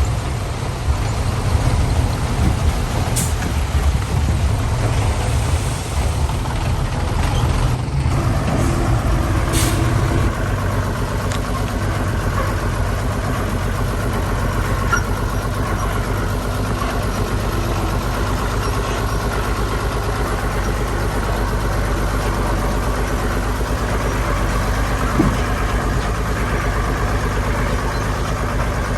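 Heavy diesel engines of construction machinery running steadily under load. The engine note shifts about a third of the way in, and there are a couple of short, sharp high-pitched sounds in the first ten seconds.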